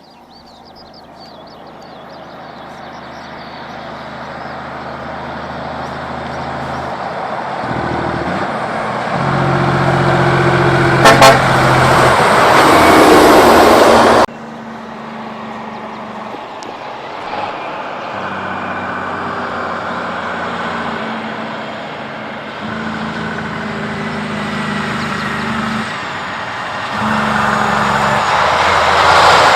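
Kenworth semi-trucks' diesel engines approaching and passing, growing steadily louder, with the engine note stepping through gear changes. About eleven seconds in the truck gives two short horn toots; a sudden cut about fourteen seconds in brings another truck running up the road.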